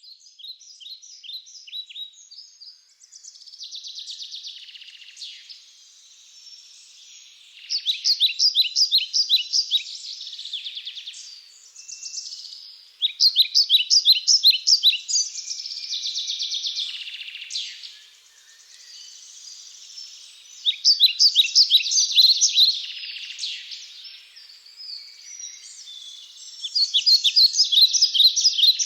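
Wild songbirds singing: bursts of rapid, high repeated notes about every six seconds, over softer chirping in between.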